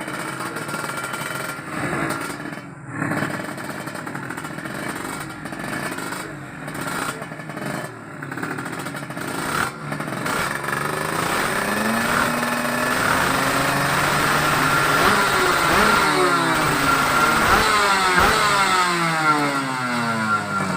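Several motorcycle engines revving at once. Their pitches rise and fall and cross one another, and the sound gets louder and busier from about halfway through.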